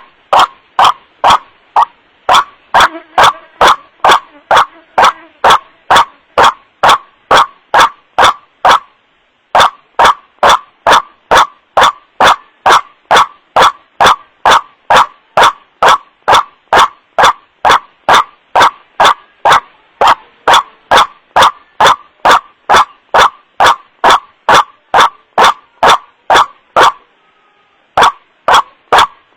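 White-breasted waterhen (kuruak) calls, a rapid run of harsh 'wak-wak' notes repeated about two to three times a second. It is a looped bird-lure recording, played loud and distorted, with two short breaks in the series.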